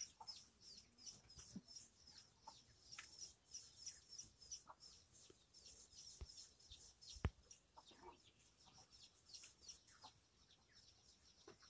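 Near silence, with faint high chirps of birds in the background throughout and one sharp click about seven seconds in.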